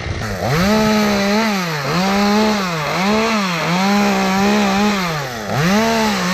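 Chainsaw engine running at high revs, its pitch dipping and recovering about once a second.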